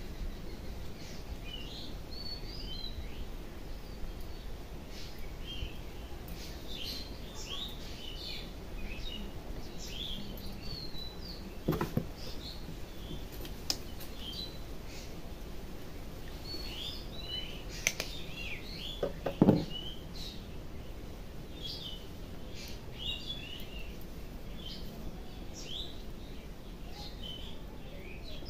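Small birds chirping repeatedly in the background. Two brief knocks break in, about twelve seconds in and again about seven seconds later, the second the loudest sound here.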